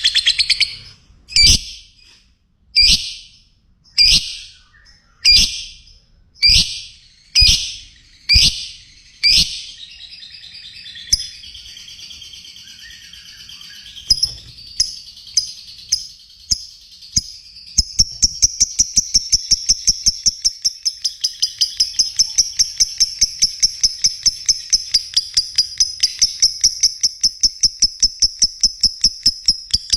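Lovebird calling: loud, sharp chirps a little over a second apart, then softer chattering, and from about halfway through a fast run of short chirps, about three to four a second, over continuous high chatter.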